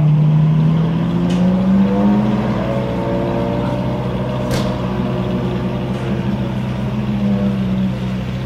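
Ferrari F12 Berlinetta's V12 engine pulling away at low revs at pit-lane speed, its pitch rising a little over the first two seconds and then holding steady.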